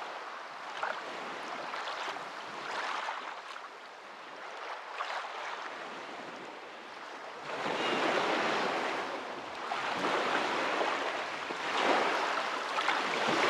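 Water rushing in a steady wash, growing louder a little over halfway through.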